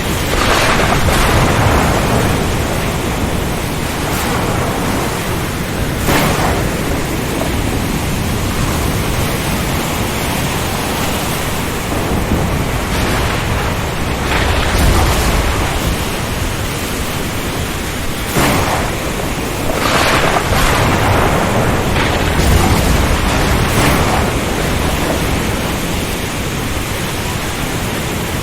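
Storm sound: steady heavy rain and wind noise, with several brief louder crackles and low thunder rumbling that swells twice, about halfway through and again near the end.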